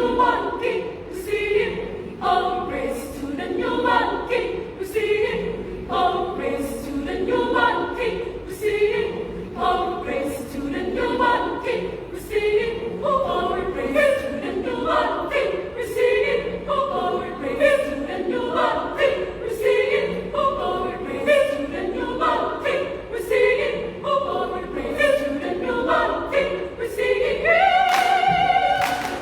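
A women's choir singing a cappella, many voices in several parts, with a steady pulse of short accents and a long held chord near the end.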